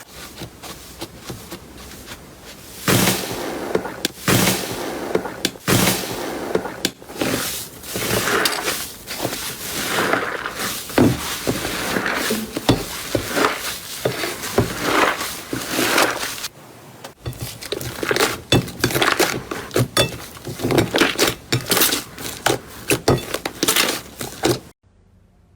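Slime being pressed and squeezed by hand, with dense runs of sharp crackles, pops and clicks, broken by a short pause about two-thirds through.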